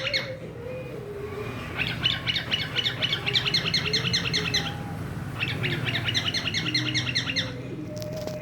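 Pet cockatiel chirping in two runs of rapid, evenly repeated short notes, about ten a second: the first about two seconds in, the second just after five seconds. A steady low hum lies underneath.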